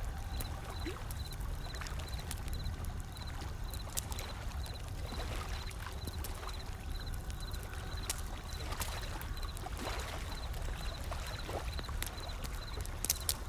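Wood fire crackling with scattered sharp pops, over a steady low rumble and the wash of ocean waves swelling in and receding.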